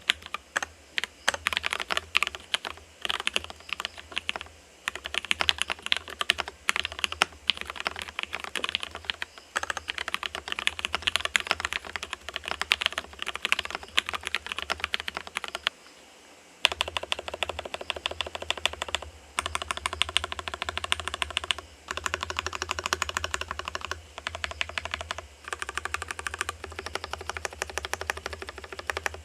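Continuous fast typing on an Adellein 45% ergo keyboard with lubed Gateron Yellow linear switches, an FR4 plate and a stacked acrylic case. There is a brief pause a little past halfway.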